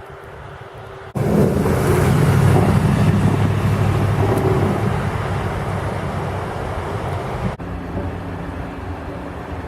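Motor vehicle close by, its engine and road noise starting abruptly about a second in and slowly fading, then cutting off suddenly to a steadier, quieter engine hum near the end.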